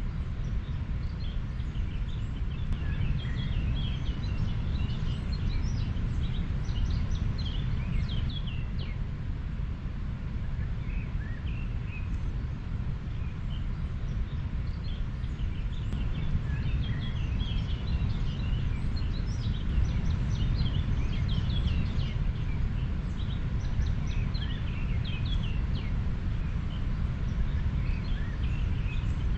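A river flowing, a steady low noise of moving water, with many small birds chirping over it in short, high, quick calls that come in flurries.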